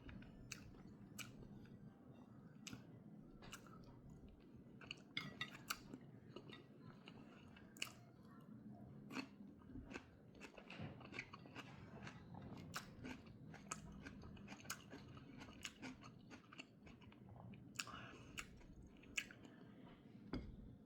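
A person eating boiled egg and cucumber: faint chewing with irregular crisp crunches throughout.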